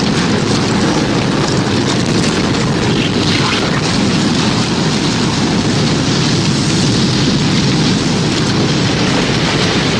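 Tornado storm sound effect: a steady, loud rush of wind and rain, heaviest in the low range, with no rise or fall.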